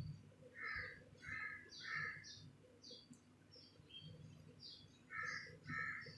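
Faint bird calls: a series of three harsh caws, then another series of three near the end, with short high chirps between them.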